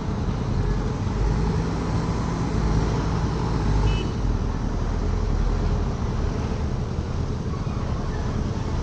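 Heavy diesel engine running steadily, a little louder between about one and four seconds in.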